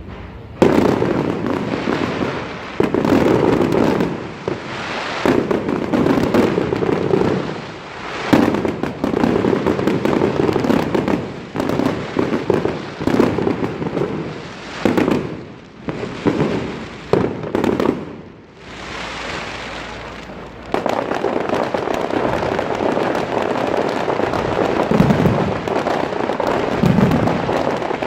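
Close-range fireworks display: shells bursting one after another, with dense crackling between them. A short lull comes about two-thirds through, then a continuous, dense crackling takes over.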